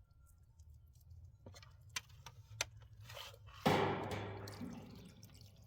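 A few small clicks, then about two-thirds in a sudden splash of water that fades away over a second or so.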